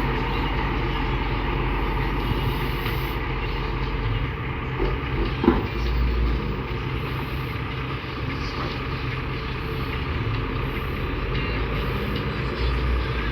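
Steady engine rumble of a heavy vehicle, with a single sharp knock about five and a half seconds in.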